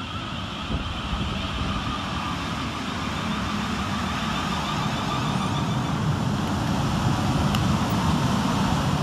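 South Western Railway Class 450 Desiro electric multiple unit coming into the station, its running noise steady and growing gradually louder.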